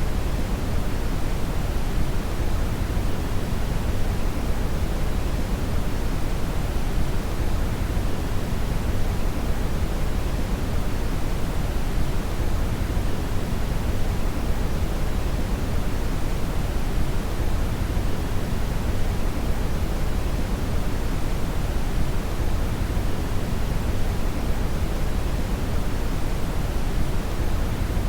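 Synthetic brown (red) noise: a steady, even hiss-like rumble with most of its energy in the low end, unchanging throughout.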